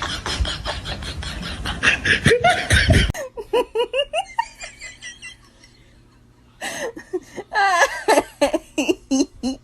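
People laughing in bursts, cut off suddenly about three seconds in; softer laughter follows, then a short lull, and loud laughter returns near the end.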